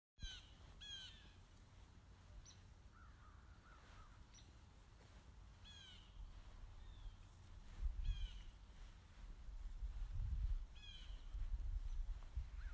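Birds calling, several short calls a few seconds apart with softer, lower calls about three seconds in, over a low rumble that swells about eight and ten seconds in.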